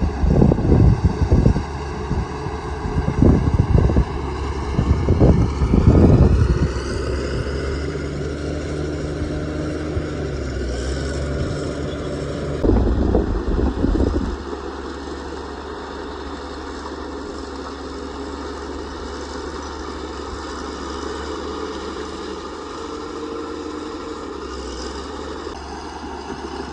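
Caterpillar bulldozer's diesel engine working under load, with loud rough rumbling and clatter through the first six seconds and again briefly about thirteen seconds in. The engine revs up around seven seconds, then runs steadier and quieter for the rest.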